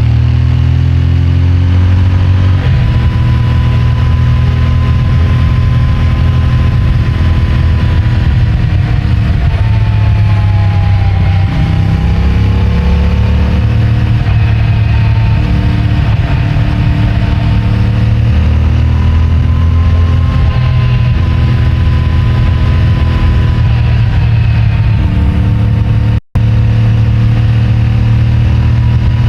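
CFMOTO 450MT's parallel-twin engine and stock exhaust running under way, the revs falling and rising as it shifts and rolls on and off the throttle. The sound cuts out completely for a split second about 26 seconds in.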